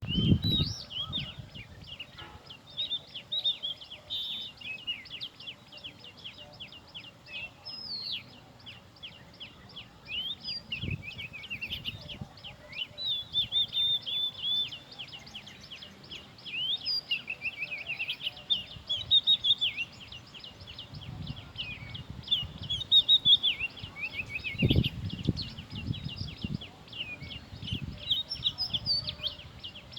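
Oriental magpie-robin singing continuously, a long varied run of quick whistled, warbling and chattering notes. A few low thumps can be heard under the song.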